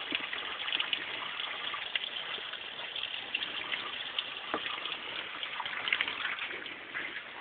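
A 2008 Mercury car engine running at idle just after a cold start: a steady rushing sound with faint scattered ticks.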